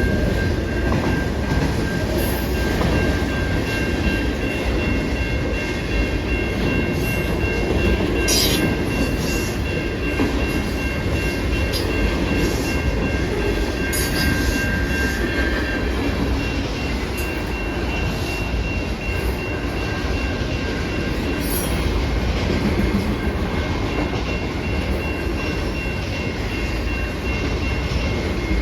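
A train passing steadily: a continuous low rumble of wheels on rail, with thin, steady high tones from the wheels and a few sharp clicks.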